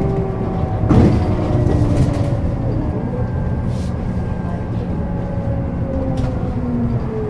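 Interior running sound of a 2007 Scania K270UB city bus: its DC9 engine rumbling, with the ZF Ecomat automatic gearbox whine slowly falling in pitch. A sharp knock or rattle comes about a second in.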